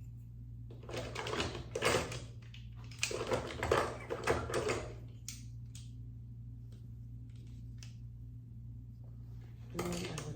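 Makeup brushes and products being handled and rummaged through: two spells of rattling and rustling in the first half, a few scattered clicks, and another rattle near the end, over a steady low hum.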